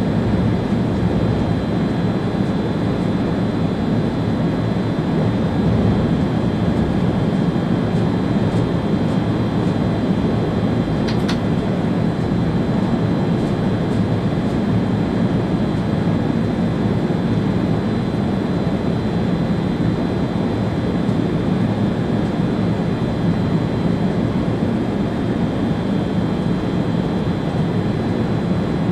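Steady running noise inside the driver's cab of an ÖBB Railjet high-speed train at speed: a low, even rumble of wheels on rail with airflow, and a thin steady high tone above it. A brief sharp click about eleven seconds in.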